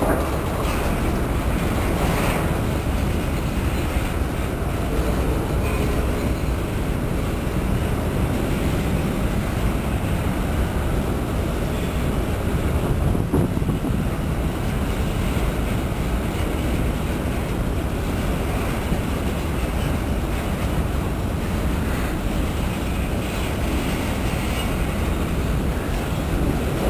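Freight train rolling past: covered grain hoppers and boxcars on steel wheels, a steady, deep rolling noise of wheels on the rails.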